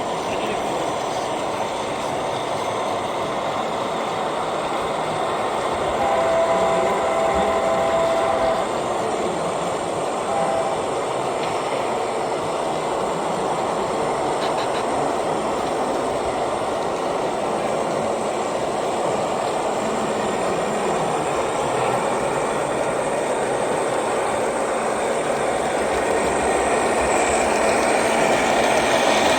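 Model diesel locomotive's onboard sound running steadily, with a horn blast of about two and a half seconds around six seconds in and a short toot a couple of seconds later.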